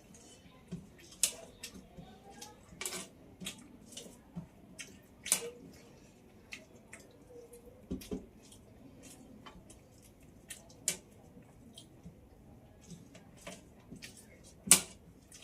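Close-miked eating sounds: irregular wet mouth clicks and lip smacks while chewing food, with the loudest smack near the end.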